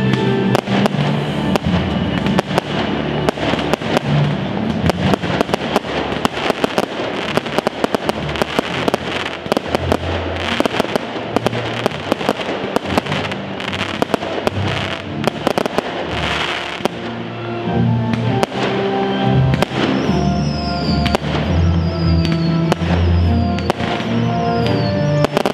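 Fireworks display: a dense run of firework bangs and crackling over loud music, the bangs thinning out in the last third as the music comes forward.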